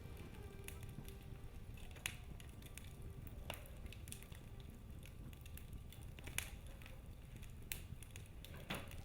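Wood fire burning in a fireplace: a steady low rumble with sharp crackles and pops every second or two.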